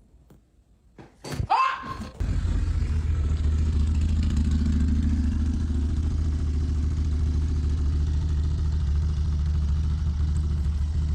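A steady low rumble like a running engine, starting about two seconds in, just after a brief pitched sound.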